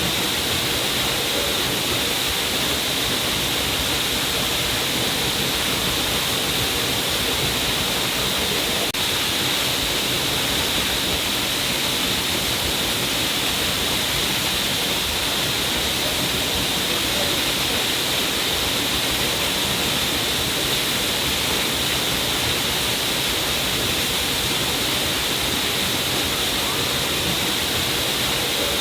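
A stream of water falling down a cliff face, a steady rushing splash with a strong hiss that does not change.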